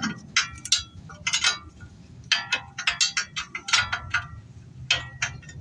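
Metal hand tools clicking and clinking on the ball joint nut as it is tightened, in short irregular groups about once a second, some clinks ringing briefly.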